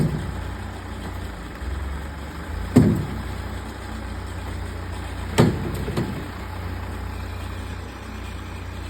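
An engine idling with a steady low hum, under heavy thuds: one just as it begins, one near three seconds in, one about halfway through, then a softer one just after.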